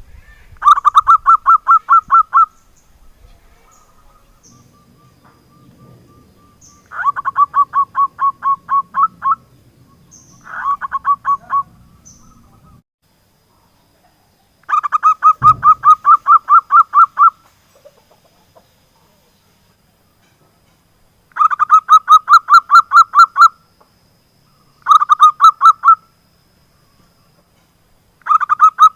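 Zebra dove (perkutut) singing: seven bursts of quick, evenly spaced staccato cooing notes, each burst lasting one to two and a half seconds, with pauses of a few seconds between. A single dull thump comes about halfway through.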